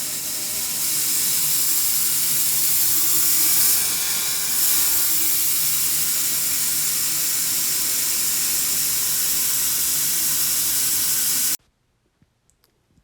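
Loud, steady hissing rush with a faint low hum beneath it, cutting off abruptly about a second and a half before the end.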